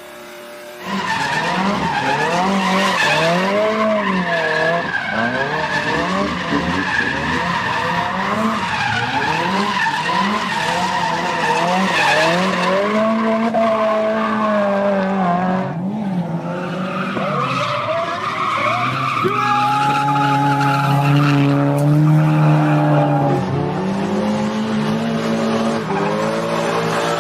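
A performance car's engine revving up and down over and over while its tyres squeal, as in drifting or donuts. The sound starts abruptly about a second in, and the pitch pattern shifts around two thirds of the way through.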